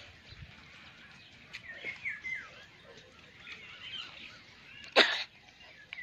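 Birds chirping faintly in the background, with one short, loud burst of noise about five seconds in.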